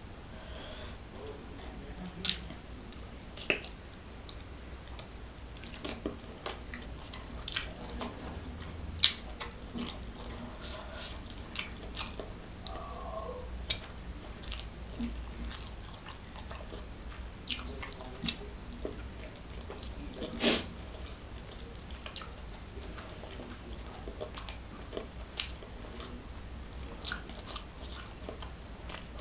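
Close-up chewing and wet mouth smacks of someone eating rice and curried boiled eggs by hand, as short scattered clicks, the loudest smack about two-thirds of the way through.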